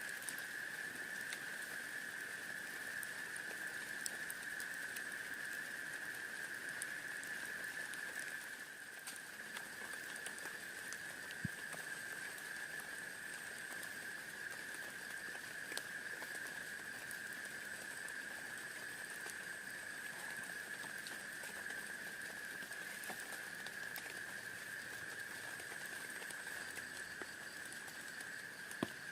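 Rain pattering steadily, with scattered drop ticks over a constant high hiss.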